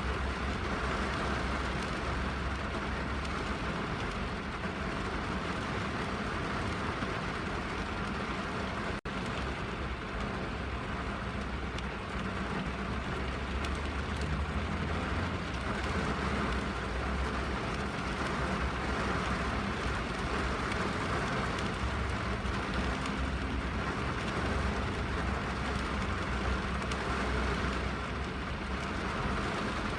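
Rain on a car heard from inside the cabin: a steady, even wash of rain noise with a low rumble underneath. It breaks off for an instant about nine seconds in.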